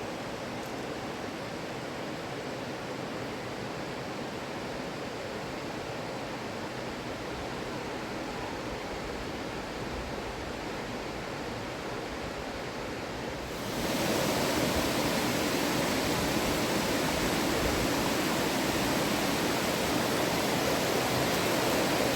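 Rushing river water, a steady roar that suddenly becomes louder and brighter a little past halfway through.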